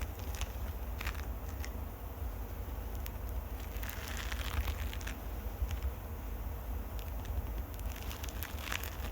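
Close-up scratching on a microphone: irregular crackling scratches and light clicks over a steady low handling rumble.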